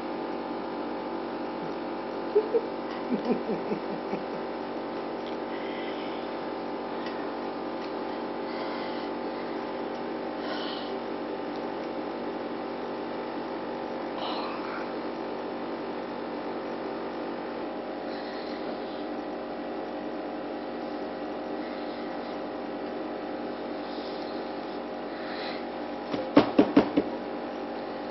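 A steady electrical-sounding hum of several held tones, broken by two short clusters of quick sharp taps, one a couple of seconds in and one near the end.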